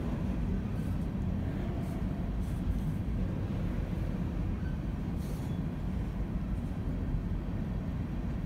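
Loaded coal cars of a slow freight train rolling past on the rails, a steady low rumble.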